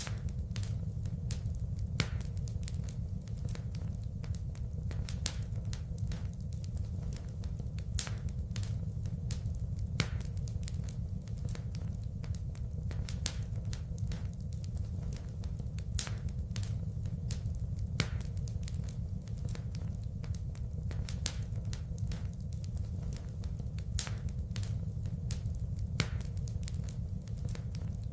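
Wood fire crackling in a fireplace: frequent sharp pops and snaps over a steady low rumble of the burning logs.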